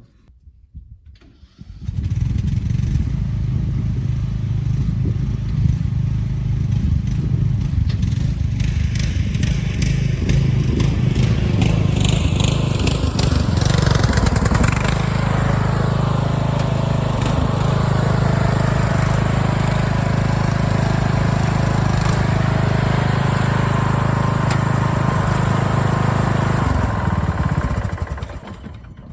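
Craftsman LT1000 riding mower's engine running steadily, starting abruptly about two seconds in and fading out near the end, with a swell of rushing noise in the middle.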